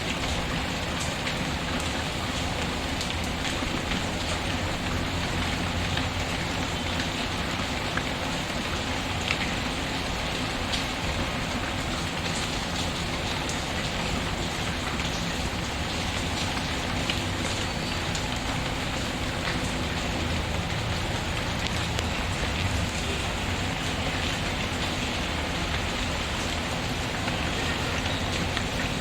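Steady rain pattering on a surface, mixed with scattered sharp clicks and pops from a crackling wood fire.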